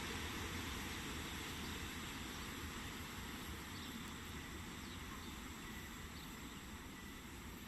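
A passing train's low rumble, fading slowly as it moves away.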